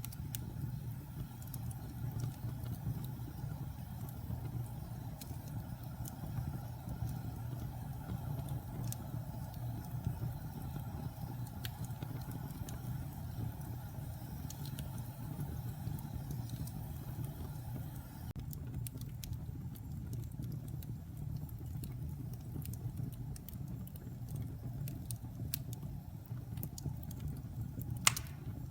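Wood fire burning in a fireplace: a steady low rumble with scattered light crackles and one loud pop near the end.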